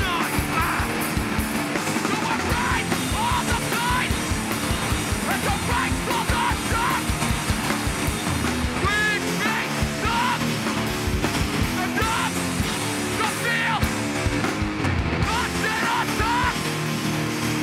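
Live hardcore punk band playing loud: distorted electric guitars over fast, driving drums.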